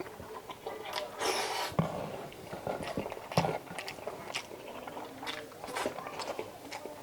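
Close-up eating sounds of a person chewing chicken adobo: wet mouth clicks and smacks, with two louder clicks about two and three and a half seconds in.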